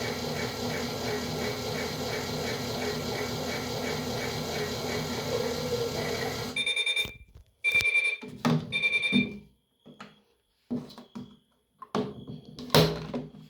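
Toy washing machine's small electric motor whirring with a fast rhythmic chatter, which stops suddenly about six and a half seconds in. Three electronic beeps follow about a second apart, signalling the end of the cycle, then a few clicks, knocks and short beeps.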